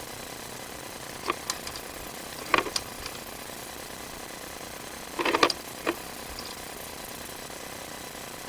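Sewer inspection camera being fed along a drain pipe: a few irregular clicks and clatters from the push cable and its reel, the loudest cluster about five seconds in, over a steady hiss.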